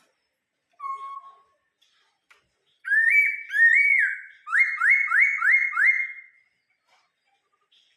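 Laughingthrush (khướu) singing in clear whistles: a short low note about a second in, then two rising, hooked notes and a quick run of four upslurred notes.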